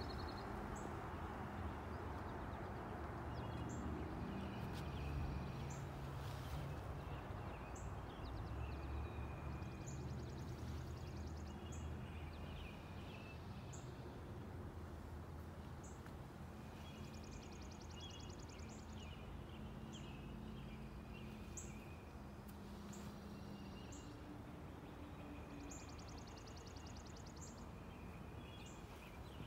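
Songbirds singing outdoors: a short high chirp repeats every second or two, with buzzy trills and other calls among it, over a steady low background noise.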